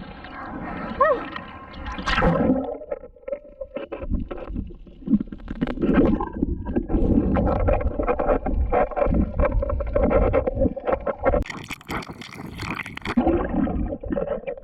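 Muffled water sloshing and gurgling around a GoPro in the water, with a steady engine hum under many small knocks and a brief splashy hiss near the end.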